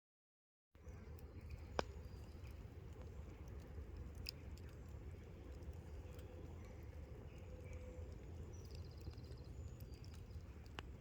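Campfire crackling faintly, with a few sharp pops over a low, steady rumble. It starts just under a second in, after a moment of dead silence.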